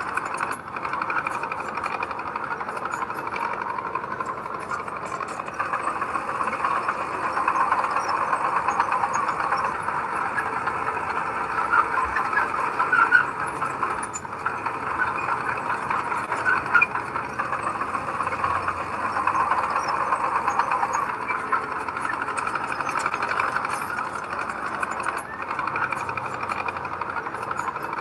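Heavy diesel earthmoving machinery running steadily, with a few sharper knocks partway through.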